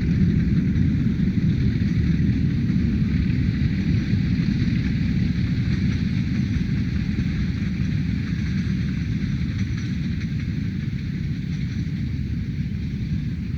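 Metre gauge train running: a steady low rumble with wind on the microphone, slowly fading.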